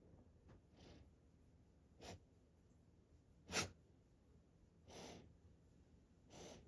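Great Pyrenees breathing in short, noisy puffs, about six of them a second or more apart, the loudest near the middle.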